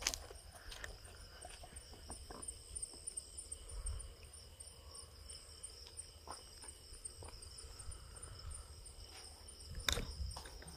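Crickets chirping steadily in a high, evenly pulsing trill, with scattered small clicks and rustles throughout. A sharper click comes just before the end.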